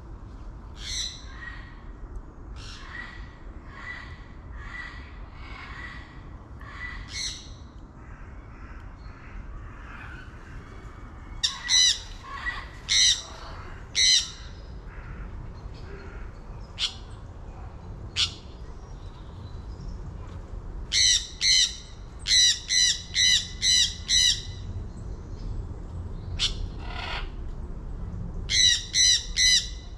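A bird calling loudly over and over: scattered single calls at first, then quick runs of five or six calls in a row.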